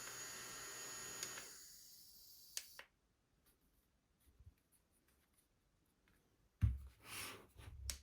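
Small battery mini fan running with a steady hiss and a thin motor whine, which dies away over about a second as the fan is switched off and spins down. A couple of faint clicks follow. Near the end comes a dull thump and some rubbing as the fan is handled.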